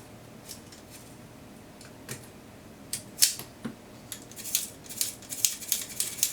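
Small sharp clicks and light metallic taps of camera parts and tools being handled during repair work, a few scattered at first, then coming thick and fast from about halfway through.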